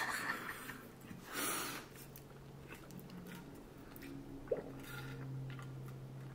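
Chewing and mouth sounds of a person eating fried rice, with a short noisy sound about a second and a half in and small clicks, over a faint steady hum.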